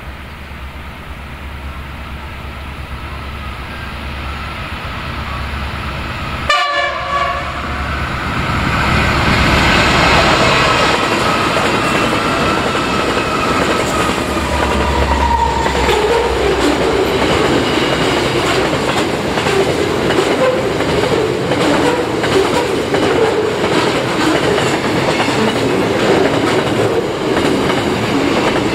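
Diesel-hauled train drawing near, its horn sounding several notes together as it approaches. It then passes, with steady, rapid wheel clatter over the rail joints as the cars roll by.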